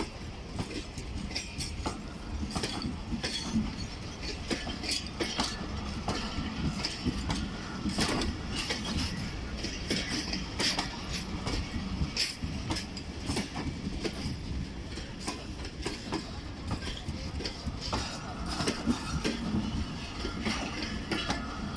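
Pakistan Railways passenger coaches rolling past as the train pulls out, their wheels clicking and clattering irregularly over rail joints above a steady rumble.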